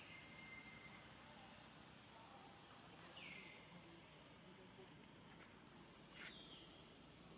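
Near silence: faint outdoor ambience with a few distant bird calls, a falling call about three seconds in and short high notes around six seconds.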